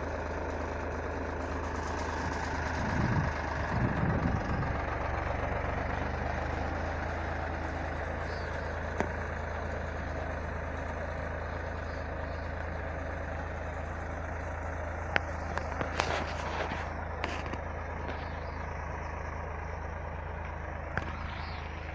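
Tractor engine running steadily, with a louder rumble a few seconds in and a few sharp knocks about three-quarters of the way through.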